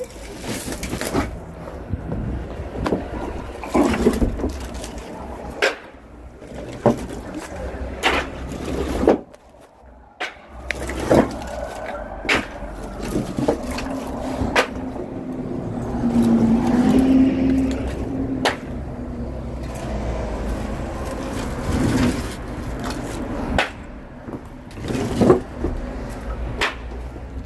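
Split oak firewood knocking and clattering as it is unloaded and stacked, in irregular single knocks over a steady low rumble. A brief low hum comes in about sixteen seconds in.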